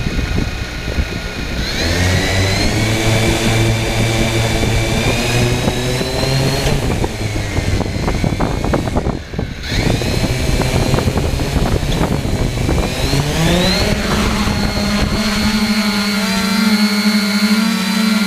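3DR Iris+ quadcopter's four electric motors and propellers whining. They spool up about two seconds in, dip briefly around the middle, then climb to a higher steady pitch near the end.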